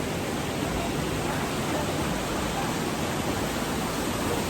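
Steady rushing of water, an even hiss with no change in level.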